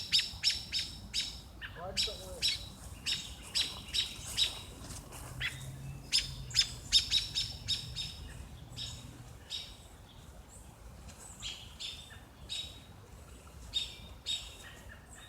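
Small birds chirping: short, sharp high calls repeated a couple of times a second in quick runs, dense at first and thinning out over the second half.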